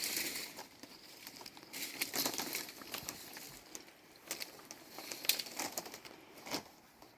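Irregular rustling and crinkling, with scattered light clicks and knocks; one sharper knock comes about five seconds in.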